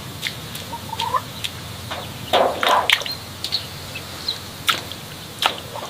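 Chickens clucking in a farmyard: short, scattered clucks and calls, with the loudest cluster a little over two seconds in.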